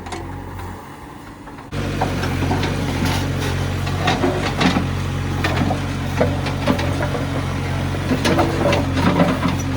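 Heavy diesel engine running steadily, with frequent sharp knocks and clatters over it. The engine sound comes in suddenly about two seconds in.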